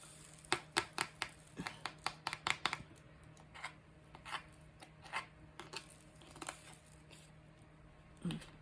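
Light, quick clicks and taps of diamond painting work: resin drills being picked up and pressed onto the canvas. A fast run of clicks in the first few seconds, then scattered single taps.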